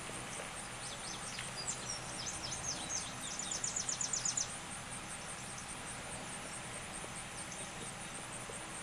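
Rural outdoor ambience: a small bird sings a few scattered chirps, then a quick trill of about ten rapid notes that ends about four and a half seconds in. Under it runs a constant high, pulsing insect trill and a steady hiss.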